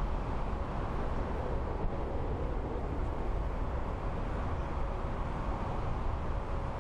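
Steady low rumble of jet aircraft engines at an airport, with a faint steady tone above it.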